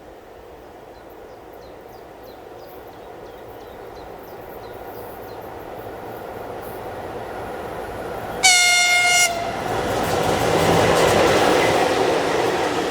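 Train approaching on a Russian electrified main line, its rumble building steadily; about eight and a half seconds in its horn sounds one short, loud blast on a single note, and then loud rushing wheel and rail noise follows as it reaches and passes.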